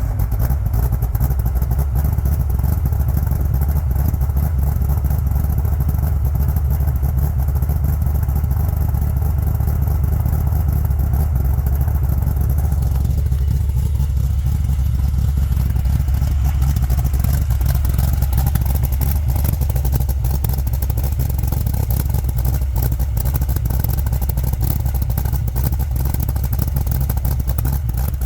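CAV GT40's V8 idling steadily with a deep, loud rumble just after a cold start. About halfway through, the upper part of its sound shifts a little while the loudness stays the same.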